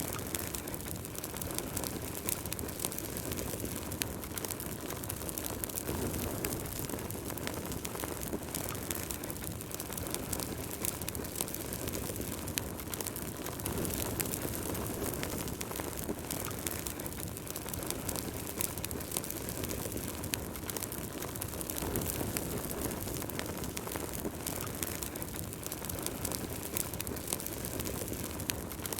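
Wood fire burning in a fireplace: a steady low rush of flames with frequent small, sharp crackles and pops from the burning logs.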